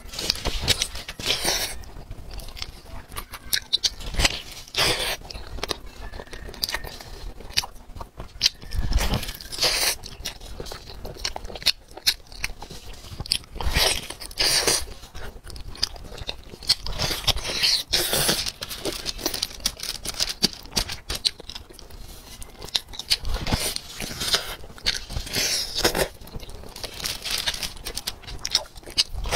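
A person chewing and biting into sauce-coated chicken and pulling it apart by hand, close to a lapel microphone: irregular clicks and short bursts of wet mouth noise.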